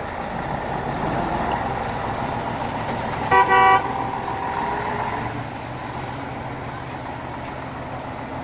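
A car horn gives two short toots in quick succession about three seconds in, over steady traffic noise.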